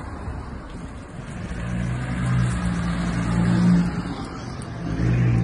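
A car engine running and revving, a steady low hum that swells over about two seconds, eases off, then comes back briefly near the end.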